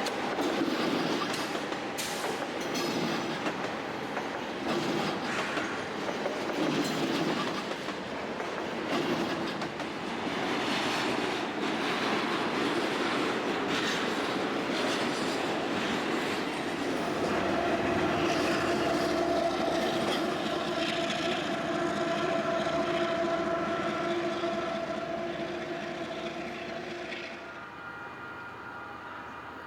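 A train passing on the tracks, its wheels clacking over rail joints and crossovers. A steady squealing tone joins in about halfway through, and the sound drops away near the end.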